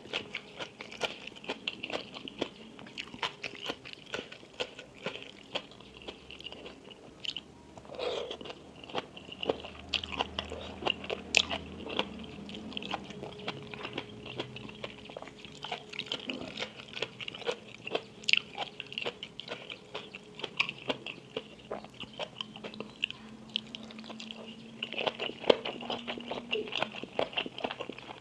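Close-miked chewing and biting of crunchy food: a steady run of small, crisp crunches and clicks from a person eating.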